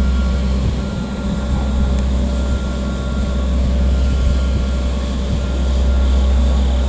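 Steady low drone of a railcar mover's engine as it moves a Shinkansen car, with a faint high beeping tone that comes and goes.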